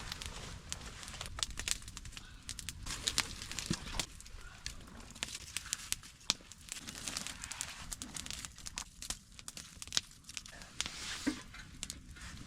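Campfire crackling, with many irregular sharp snaps and pops over a faint hiss.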